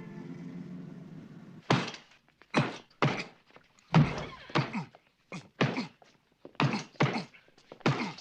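A series of about a dozen heavy thudding blows, irregularly spaced, beginning about a second and a half in: punches landing. Before them a low steady hum fades out.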